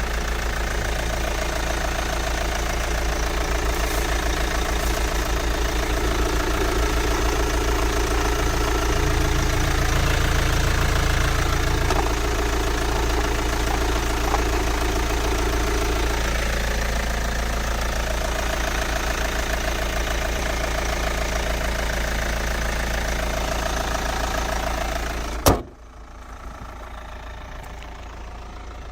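2006 Hyundai Tucson's 2.0-litre four-cylinder turbo-diesel engine idling steadily with a diesel clatter. Near the end a sharp click, and the sound suddenly drops much quieter.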